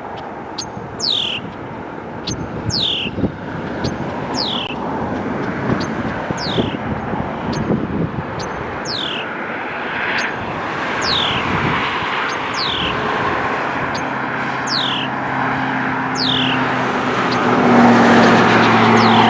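Steady outdoor rumble with a bird repeating a high, falling call about every second and a half. Over the last few seconds a low, steady engine drone comes in and grows louder.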